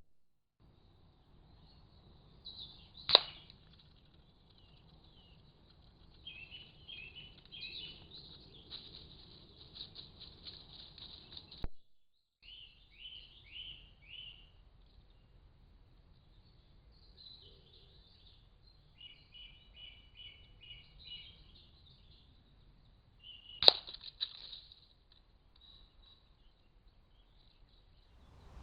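Small birds chirping in short, repeated falling runs, broken twice by a single sharp crack about twenty seconds apart: air rifle shots.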